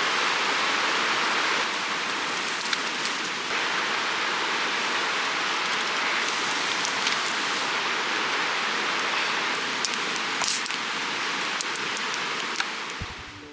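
Clear creek water flowing and rushing steadily, with a few faint clicks, fading out near the end.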